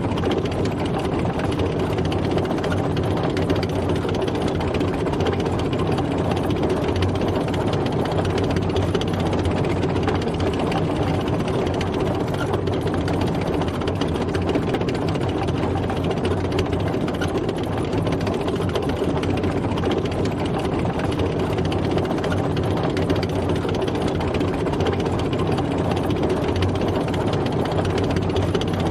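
Tank driving: its heavy engine runs steadily, with a dense mechanical clatter over a low, even drone.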